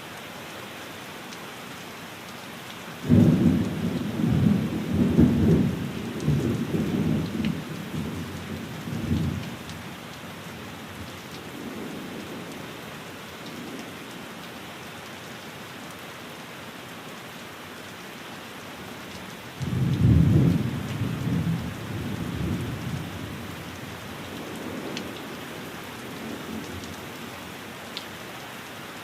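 Steady rain falling, with two rolls of thunder: the first breaks suddenly about three seconds in and rumbles for several seconds, and the second comes about two-thirds of the way through and fades.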